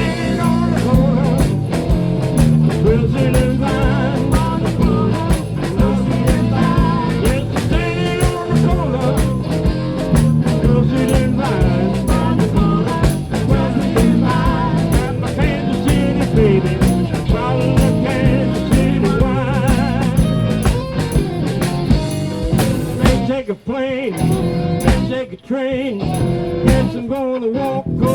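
Live blues band playing, with guitar and bass over a steady beat. The music drops out briefly twice near the end, like short stop-time breaks.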